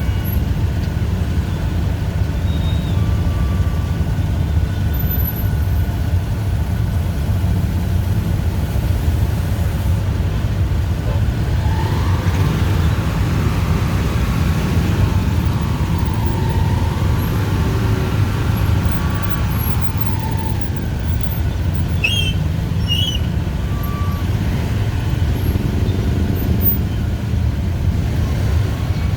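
Dense rush-hour street traffic of motorbikes and cars, engines running with a steady low rumble. A couple of short high chirps come about three-quarters of the way through.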